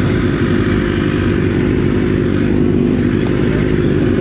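Motorcycle engine running steadily under way, at an even pitch and level.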